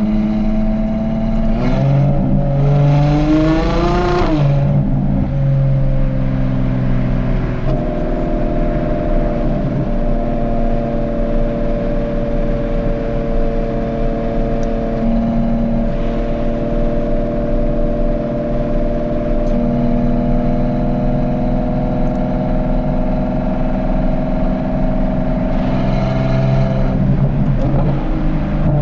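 Ferrari Purosangue's V12 through a Novitec race exhaust, heard from the moving car: about two seconds in the engine note rises quickly under hard acceleration, then it settles into a long steady cruising drone, with another burst of throttle near the end.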